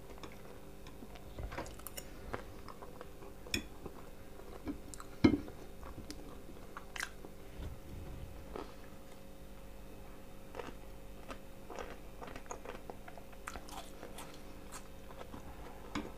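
Close-up chewing of fried potatoes, with scattered small mouth clicks and one louder click about five seconds in.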